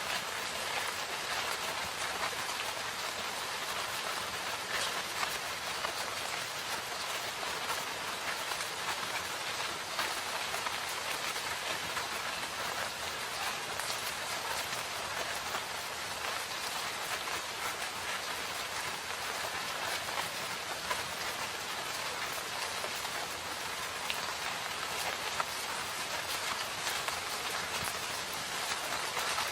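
Steady rain falling in a forest, with a dense patter of drops on leaves and surfaces.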